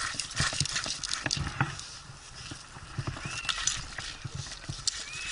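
Irregular knocks and clicks of rope-loop climbing gear being worked on a pine trunk, with a few short high chirps about three seconds in and again near the end.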